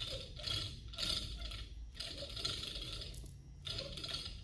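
Metal hand-tool work on an engine's flywheel: several short spells of metallic clinking and scraping as bolts are fitted, with brief pauses between them.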